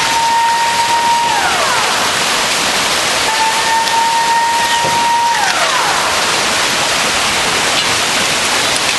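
Loud, steady rush of heavy storm rain and water. Over it, a high, siren-like tone holds and then glides down, twice: once about a second in and again about five seconds in.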